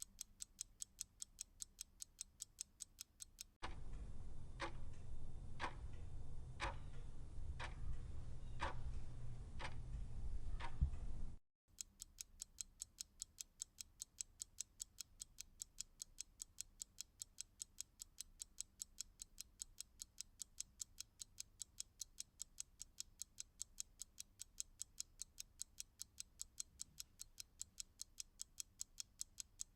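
Clock ticking fast and evenly, about four ticks a second. From about four to eleven seconds a louder, different clock recording cuts in, with slower ticks roughly one every ¾ second over a low hum. After a brief dropout the fast ticking comes back.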